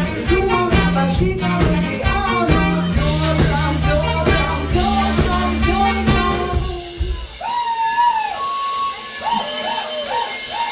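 Pop-rock band playing live: bass and drums under a melodic line until about seven seconds in, when the bass and drums drop out and the melody goes on alone in short repeated notes.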